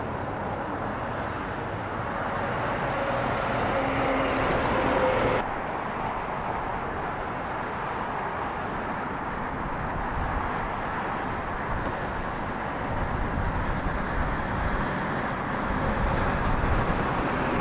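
Steady outdoor rumble of aircraft and vehicle noise at the airport, dropping abruptly about five seconds in and swelling again near the end.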